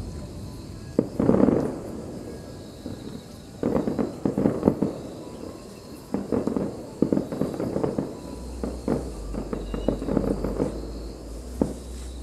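Aerial fireworks going off in clusters of sharp bangs and crackles, with short lulls between them. A low rumble comes in after about eight seconds.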